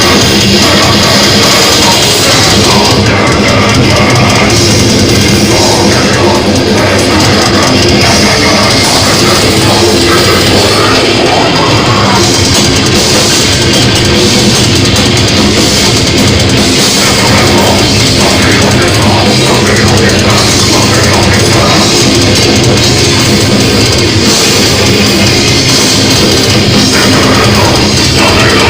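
Loud heavy metal music with distorted guitars and a pounding drum kit, playing without a break.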